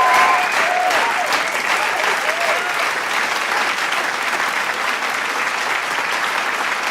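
Large crowd applauding with dense, steady clapping, with a few shouts and whoops standing out over it during the first couple of seconds.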